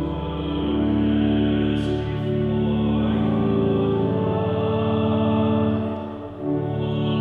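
Church organ playing a communion hymn with singing, in long held chords, with a short break between phrases about six seconds in.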